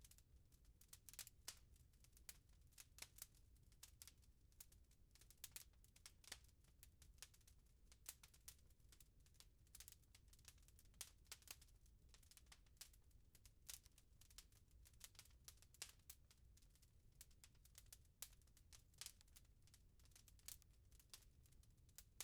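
Faint crackling of a wood fire in a fireplace: irregular sharp pops and snaps, several a second, over a low steady rumble.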